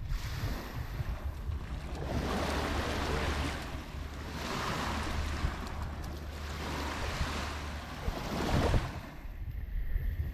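Sea waves washing up the shore, swelling and fading several times, with a low rumble of wind on the microphone.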